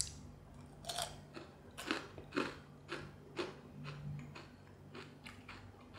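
A person biting and chewing crispy fried chicken skin, with about half a dozen short crunches at uneven intervals.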